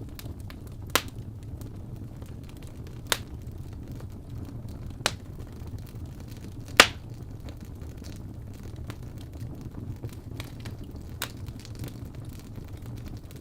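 Fireplace fire crackling over a steady low rumble, with sharp pops about every two seconds through the first half and a few fainter ones later; the loudest pop comes about halfway through.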